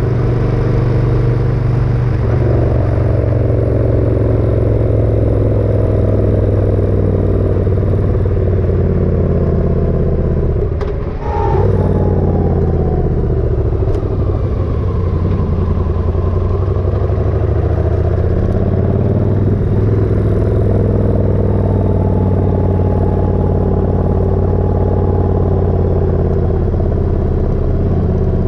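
Motorcycle engine running on the move. Its pitch drops as it slows about ten seconds in, then rises again as it picks up speed.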